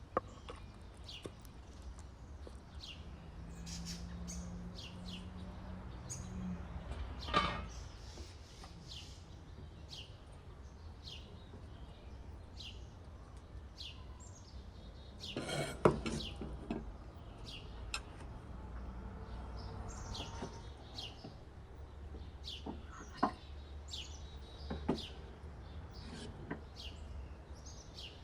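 Small birds chirping: many short, high, falling chirps one after another, over a steady low rumble. A few sharp knocks break in, the loudest about halfway through.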